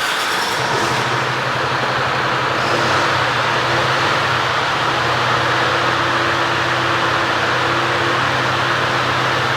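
Mercedes-Benz Antos 1824 truck's diesel engine catching at start-up, then settling into a steady idle.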